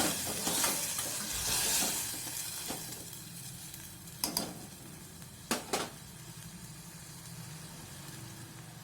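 Onion-tomato masala in a hot pan sizzling as water is stirred in, the sizzle loud at first and fading steadily. A spoon knocks on the pan three times in the middle.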